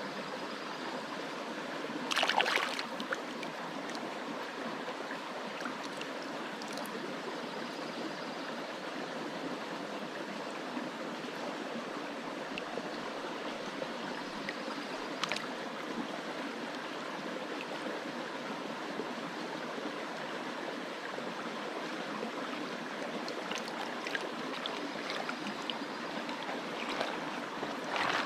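Mountain creek running steadily, a constant rush of flowing water, with a brief knock about two seconds in and a few fainter clicks later on.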